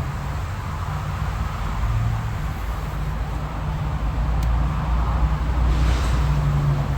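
Honeybees buzzing around an opened hive: a steady low hum of many bees, with a faint click about four and a half seconds in.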